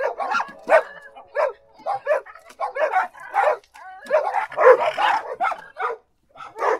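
A dog barking over and over in short, sharp barks, about two to three a second, crowding closer together a little past the middle and pausing briefly near the end.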